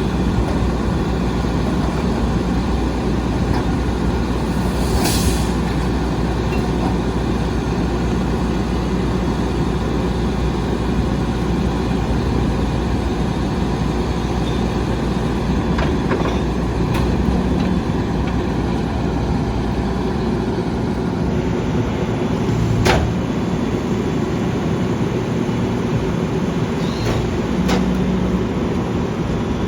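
Volvo Xpeditor rear-loader garbage truck's diesel engine running steadily, with a few sharp knocks.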